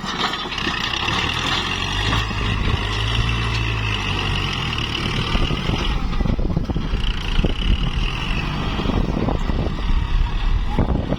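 Kubota MU4902 tractor's diesel engine running under load while pushing soil, with a steady high whine that drops out about six seconds in and comes back briefly. Rattling knocks from the working tractor come through the second half.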